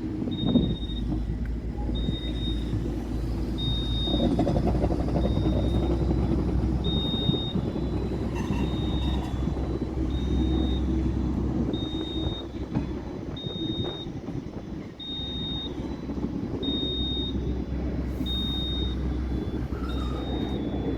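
Steady low rumble of a train, with a short high electronic beep repeating about once a second.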